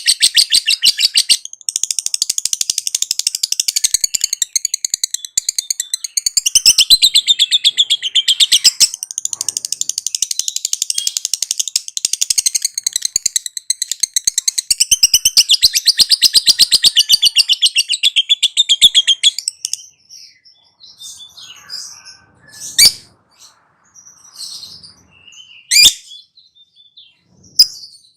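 Lovebird singing its long, rapid chattering 'ngekek' trill, which runs almost unbroken with only brief pauses and then stops about two-thirds of the way in. After that come scattered short calls and a few sharp chirps.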